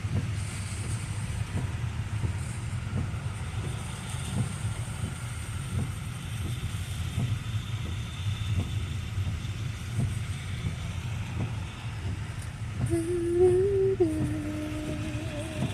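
Steady low rumble of a car heard from inside the cabin while driving in the rain. Near the end a woman's voice hums a held note that steps down once.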